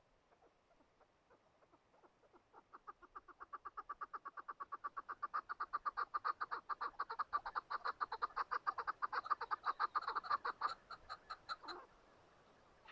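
Chukar partridge calling: a long run of rapid, evenly spaced 'chuk' notes, several a second, that grows louder and then breaks off about a second before the end.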